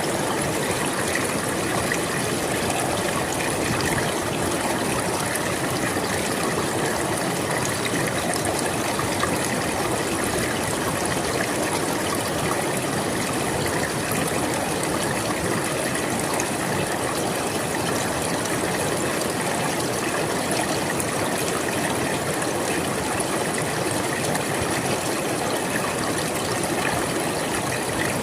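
River water flowing over rocks, a steady rushing and babbling with no change in level.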